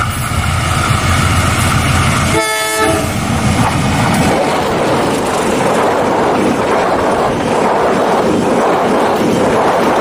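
Passenger train passing close behind a diesel locomotive. The locomotive's engine rumbles past and gives a short horn blast about two and a half seconds in, then the coaches roll by with a steady rush and wheels rattling on the rails.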